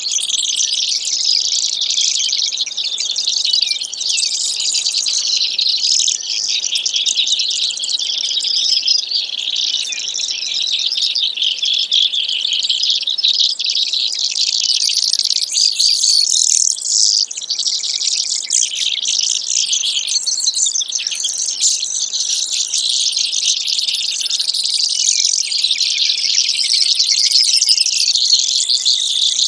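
Brewer's sparrow song: a continuous, high-pitched run of rapid trills that goes on without a break.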